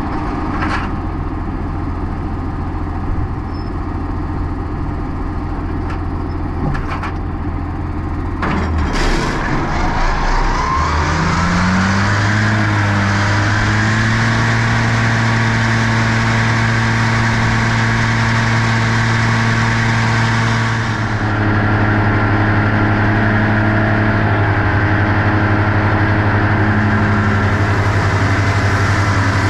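Tractor engine idling, then revving up smoothly about ten seconds in and holding a steady higher working speed with a high whine over it, as the mower is set going; a few clicks come just before the rev-up.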